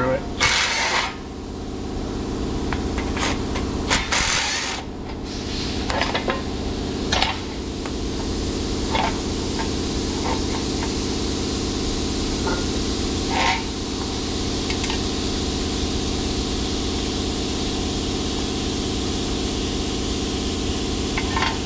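Scattered metallic clinks and knocks of tools and suspension parts being handled, over a steady low machine hum.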